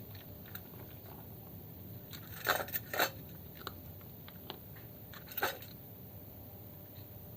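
Cat eating greedily from a dish, crunching its food, with sharp clicks as food and teeth hit the dish: a cluster of loud clicks about two and a half to three seconds in and another near five and a half seconds, with lighter ticks between.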